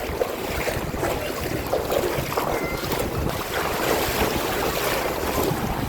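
Seawater sloshing and lapping in small irregular swells, with wind on the microphone.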